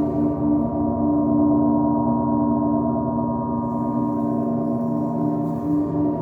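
Gong ringing in a sustained drone of many layered overtones, slowly swelling and wavering.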